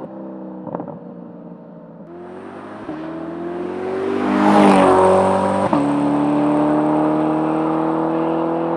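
Chevrolet C8 Corvette V8 through a titanium catback exhaust, accelerating past: the engine note climbs and grows louder, peaks as the car goes by about halfway through with a drop in pitch, then after a gear change near two-thirds in keeps pulling away. A couple of sharp exhaust pops come near the start.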